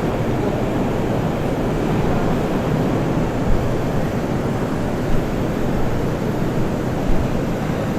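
Cabin noise inside a Moscow Metro 81-760/761 "Oka" train car running between stations: a steady rumble of wheels on rail and running gear, with a few light knocks.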